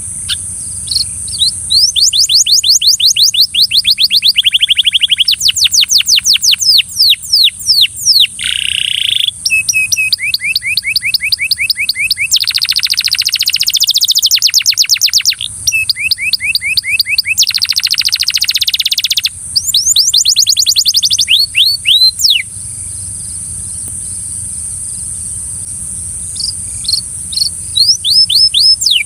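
Canary song: fast trilled phrases of repeated downward-sweeping notes, changing from one roll to the next, with a pause of several seconds near the end before the trilling starts again. A steady high hiss runs underneath.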